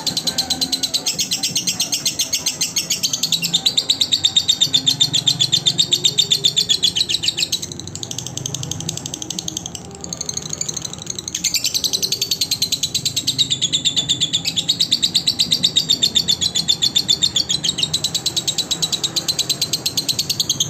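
Lovebird chattering in a long, fast run of high chirps, easing off briefly midway and then picking up again.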